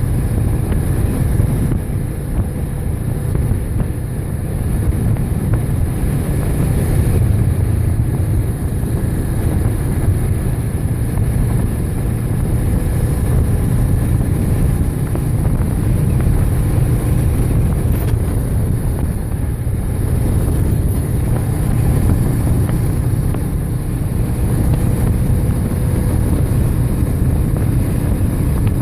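Motorcycle cruising at a steady speed: a continuous engine drone mixed with wind noise on the microphone.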